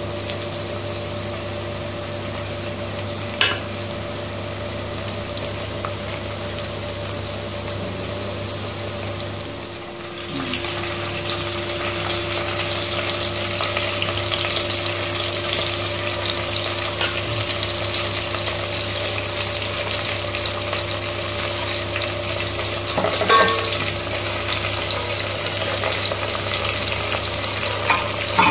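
Sliced onions frying in hot oil in a steel pot: a steady sizzle that gets louder about ten seconds in. A steel spatula clinks against the pot a few times.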